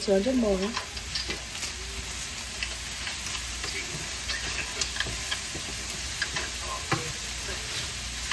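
Food sizzling in a pot on the stove, with scattered light clicks of a utensil stirring.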